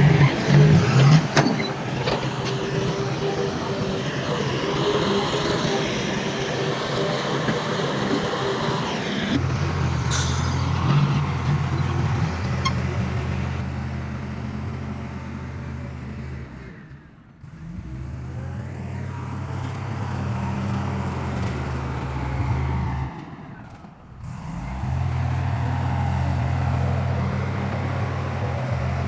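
Heavy diesel earthmoving machinery at work: about nine seconds of clattering and scraping with sharp knocks, then a steady low engine drone that drops away briefly twice.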